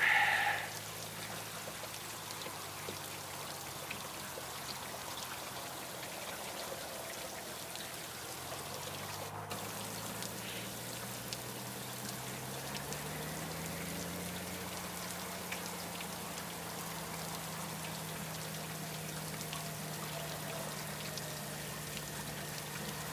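Steady hiss of rain and wet-road spray on a moving motorcycle, under the engine's low hum, which rises in pitch about eight to fourteen seconds in as the bike speeds up and then holds steady.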